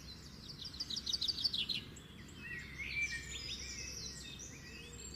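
Songbirds calling and singing: a fast, high trill of repeated notes in the first couple of seconds, then scattered chirps and short whistled notes, over a steady low background rumble.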